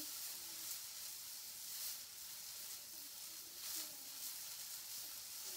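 Faint steady hiss with soft recurring swishes from hula hoops spinning at the waist.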